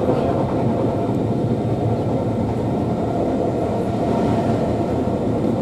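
Steady rumble of a passenger coach running at speed on the main line, heard from inside the carriage: wheels on the rails and the body's running noise, with no clear rhythm of rail joints.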